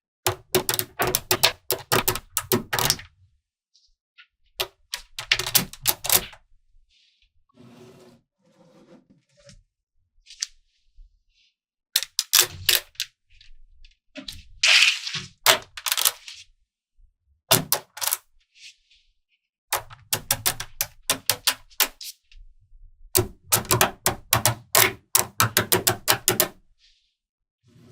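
Small magnetic balls snapping and clicking together in quick bursts of clicks, with pauses between. About fifteen seconds in there is a short rattling hiss as balls slide and roll against each other.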